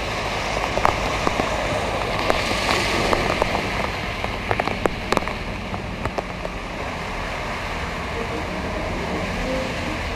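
Heavy tropical-storm rain falling on a flooded street, a steady hiss of rain on standing water with scattered sharp drop ticks. A pickup truck swishes through the floodwater, the noise swelling for a while partway through.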